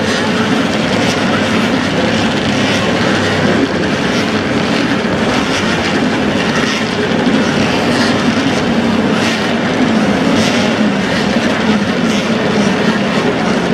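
Engines of vintage racing motorcycles, built before 1972, running together on a circuit at a steady loud level, with a rough low drone.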